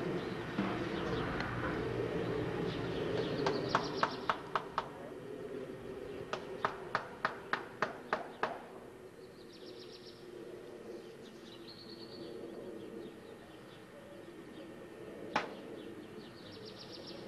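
Small birds chirping now and then, high and faint, over a low steady hum. Two quick runs of sharp, evenly spaced clicks cut through: about five around four seconds in and about eight from six seconds in, with a single click near the end.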